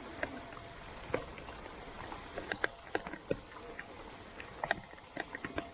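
Steady rain hiss with irregular sharp ticks and taps of drops, several a second at uneven spacing.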